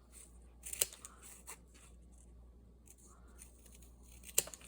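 Scissors snipping small pieces off a roll of linen tape: a few short, sharp snips with light rustling between them, the loudest about a second in and near the end.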